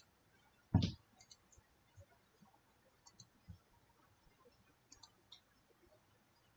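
Faint, scattered computer mouse clicks, with one short, louder sound a little under a second in.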